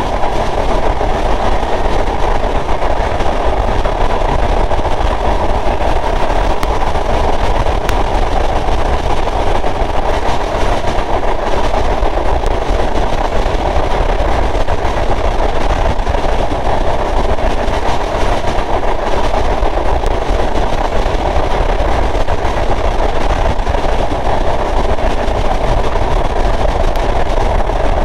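Sundarban Express passenger train running at a steady speed: a continuous, unbroken rumble and rush of the moving train.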